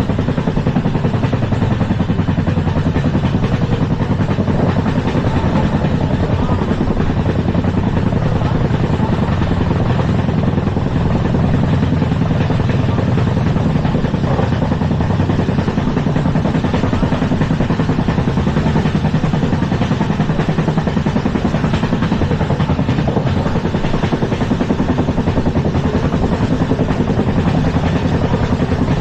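LHB passenger coach running at speed: steady, loud running noise of the wheels on the rails, unbroken for the whole stretch.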